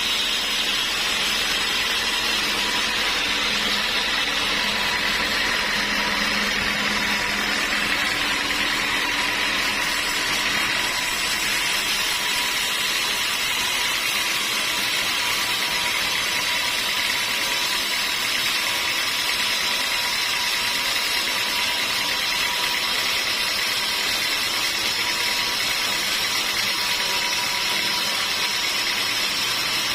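Sawmill machinery running steadily with a continuous, even mechanical noise.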